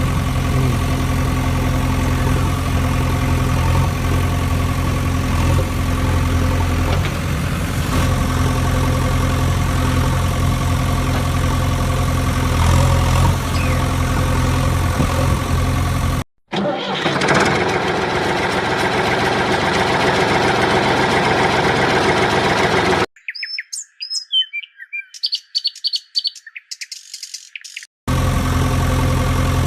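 Heavy truck engine idling steadily with a deep, even hum. About halfway through it cuts to a rougher engine sound, then for several seconds there are only high chirping sounds before the idle comes back.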